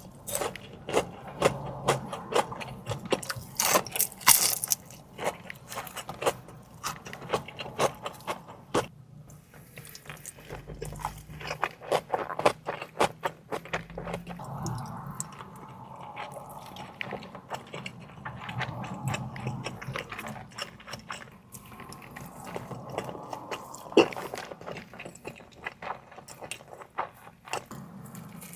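Close-miked eating of seafood: biting and chewing, with many sharp crunching clicks, densest in the first half and one louder crack near the end.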